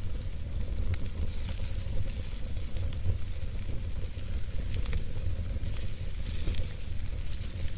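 Wood fire burning in a fireplace: a steady low rumble of flame under a hiss, with scattered small crackles and pops.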